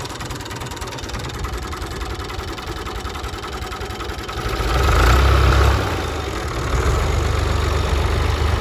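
Diesel engine of an old 480-model tractor running with a steady pulse, revving up for about a second and a half around the middle, easing back, then running on at a louder steady pace.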